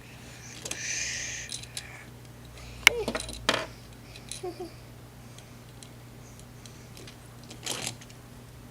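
Small plastic Lego toy pieces being handled: a short scraping hiss about a second in, then a few sharp clicks and clacks spaced seconds apart.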